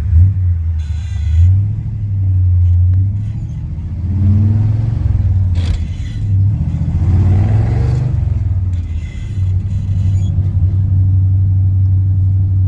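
Old hot rod's engine running while driving, a deep exhaust drone that swells and rises in pitch twice as it accelerates, then settles to a steady cruise.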